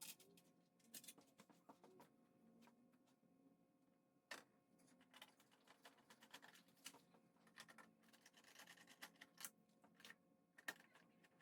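Faint, scattered clicks and light scraping of small hand tools and plastic fairing panels being worked off a motorcycle, over a faint steady hum.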